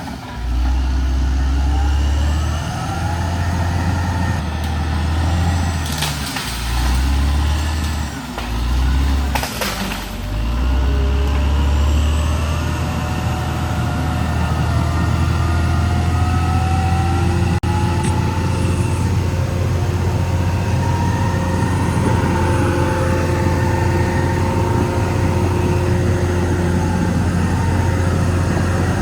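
Caterpillar D6R XL bulldozer's diesel engine running under load, its note dipping and recovering several times in the first ten seconds, with two short rushes of noise around six and nine seconds in, then running steadily.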